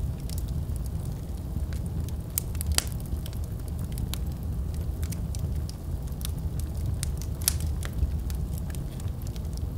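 Wood fire burning in a fireplace: a low steady rumble of the flames with irregular sharp crackles and pops, two louder pops about three seconds in and about seven and a half seconds in.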